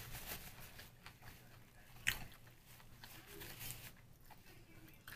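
Faint chewing of a sushi roll, with small wet mouth clicks and one sharper smack about two seconds in.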